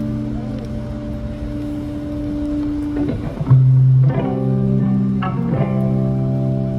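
Live band playing a song's instrumental intro on guitar and bass guitar: held chords over a steady bass, changing a few times.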